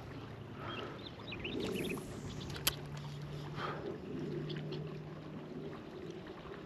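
Kayak moving quickly down a shallow river riffle: water rushing and lapping against the hull, with one sharp click about two and a half seconds in.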